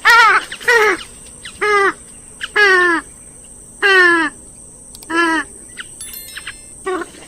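Grey-headed swamphen calling: about six loud, harsh calls in a row, each bending down in pitch.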